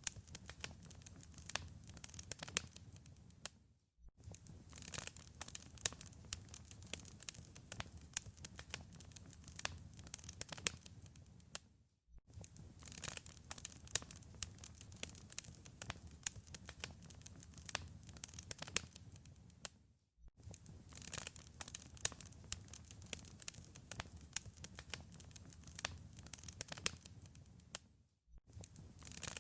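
Wood fire crackling in a fireplace: dense sharp pops and snaps over a low, steady rumble of flames. The sound drops out briefly about every eight seconds.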